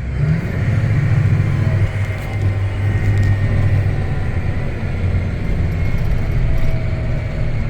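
John Deere tractor engine running steadily under heavy load, heard from inside the cab, as the tractor strains for traction on an icy hill with the differential lock engaged and fails to climb.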